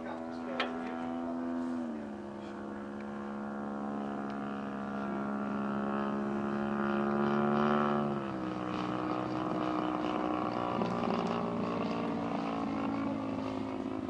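Large-scale RC Super Decathlon model airplane's engine and propeller running in flight, one steady note whose pitch steps down about two seconds in and again about eight seconds in, loudest just before the second drop.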